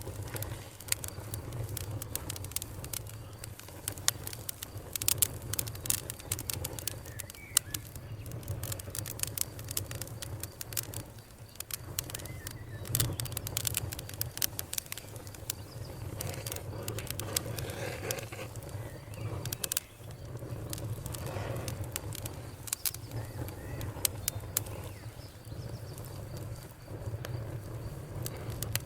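Wood fire crackling, with frequent sharp pops and snaps scattered irregularly over a steady low rumble.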